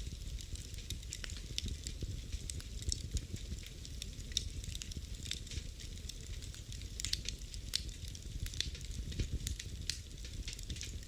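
Wood fire burning in a fireplace, crackling with frequent irregular sharp pops over a steady low rush of the flames.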